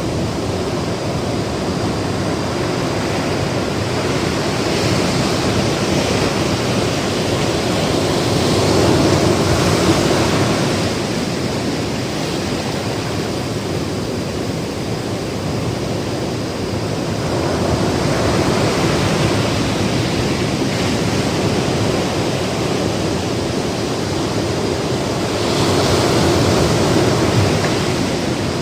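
Ocean surf on a beach: a steady rush of water that swells louder three times as waves break, about every eight or nine seconds.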